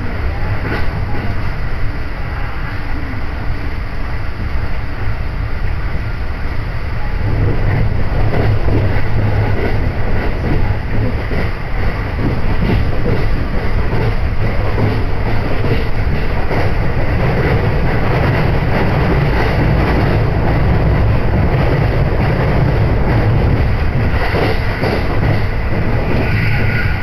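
Hokuriku Line electric train running, heard from inside the passenger car: a steady rumble of wheels on rails, growing louder about seven seconds in.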